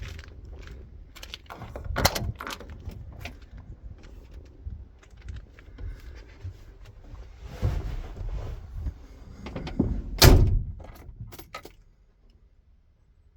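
Clatter and knocks of someone moving about a DAF LF truck's cab, keys jangling, then a loud slam about ten seconds in, typical of the cab door shutting, and then near quiet.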